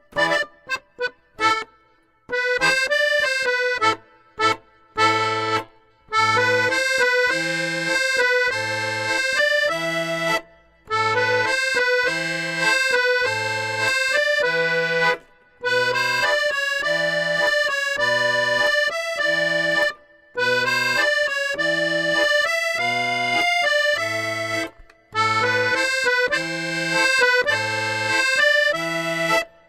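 Accordion music, a melody over a steady alternating bass-note-and-chord accompaniment, with a few short breaks between phrases.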